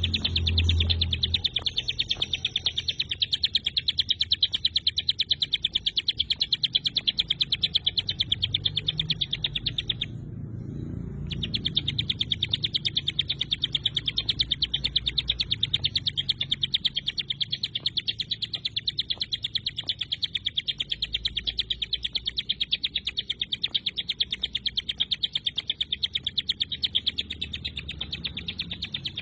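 Ciblek gunung, a prinia, singing its rapid 'tembakan' song: a fast, even train of high, sharp notes repeated without pause, breaking off for about a second near the middle.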